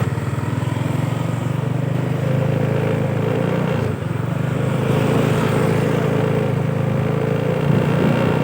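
Truck engine running steadily, with a brief dip about four seconds in before it picks up again.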